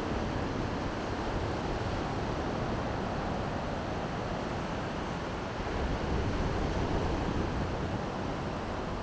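Baltic Sea surf washing onto the shore in a steady rush, swelling a little about halfway through, with some wind on the microphone.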